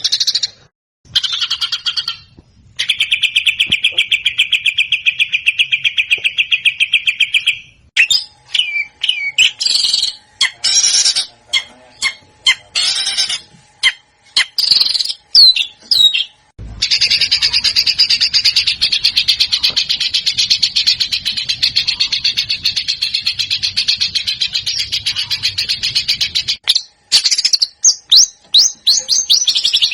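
Songbird song from a bird-tutoring (masteran) recording, in joined segments that start and stop abruptly: a fast, even trill, then a run of separate sharp whistled sweeps, then a long rapid chatter, and a few falling whistled notes near the end.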